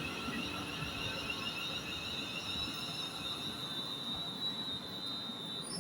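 Class 350 Desiro electric multiple unit giving a steady high-pitched whine with a slight wobble, over a low rumble; the whine cuts off near the end.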